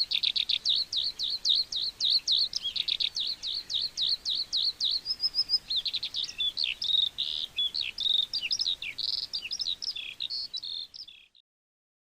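Eurasian skylark singing a continuous, rapid stream of high chirps, trills and slurred whistles that cuts off suddenly near the end.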